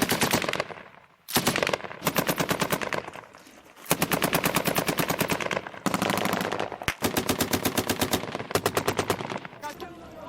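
Automatic weapon fire in several long, rapid bursts with short pauses between them.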